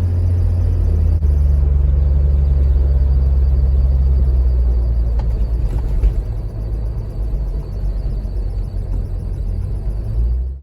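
Toyota Land Cruiser 80 driving at highway speed: a loud, steady low rumble of engine and road, with faint thin high-pitched tones above it. It cuts off suddenly at the very end.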